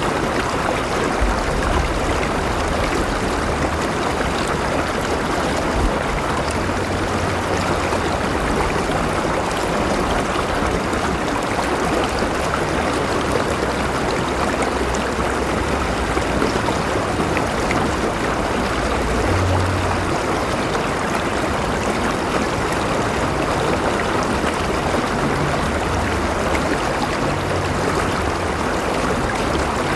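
River water flowing and splashing over rocks, a steady rushing and gurgling.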